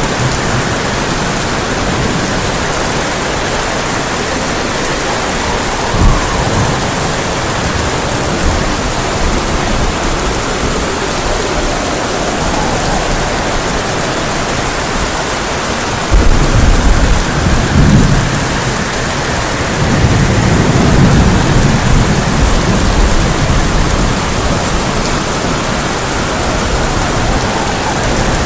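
Heavy rain beating steadily on a tin roof, with a single sharp crack about six seconds in. About halfway through, thunder breaks in suddenly with a low rumble, swells again a few seconds later, then fades back under the rain.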